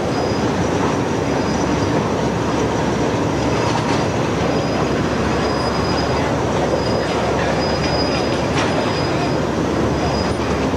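A train running close by, its wheels rumbling on the rails, with a thin high wheel squeal that comes and goes and a few sharp clicks.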